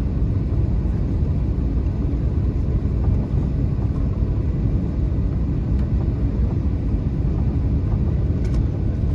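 Steady low rumble inside the passenger cabin of a Boeing 737-800: its CFM56 jet engines and the airflow round the airframe running without change.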